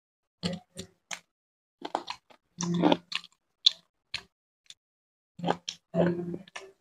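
Close-miked chewing and biting of fried chicken leg: a string of short, irregular mouth smacks and bites with silent gaps between.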